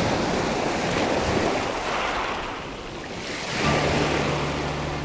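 Sea waves washing and surging, the rush rising and falling in swells. About three and a half seconds in, a steady low hum starts under the waves.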